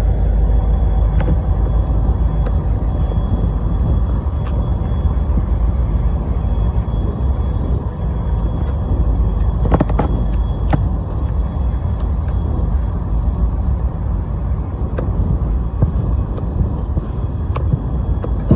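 A long string of diesel locomotives coupled together running by, a steady deep engine rumble with scattered sharp clicks and knocks.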